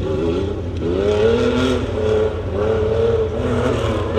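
A 4x4 truck's engine revving hard on an off-road race course, its pitch climbing, holding and dropping again several times as the driver works the throttle.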